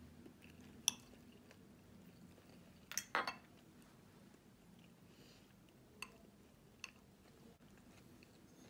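A few sharp light clicks, with a short cluster of louder knocks about three seconds in, over a faint steady hum.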